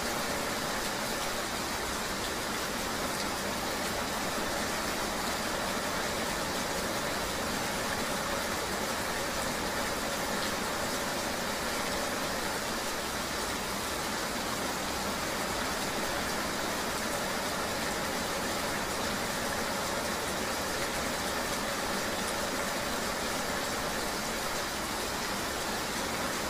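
Steady rain ambience mixed with a continuous engine-like hum, an even noise that stays the same with no distinct events.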